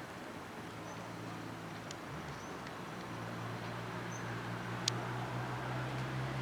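Outdoor ambience: a steady low engine drone that grows a little louder about halfway, with a few short faint high bird chirps and a single sharp click near the end.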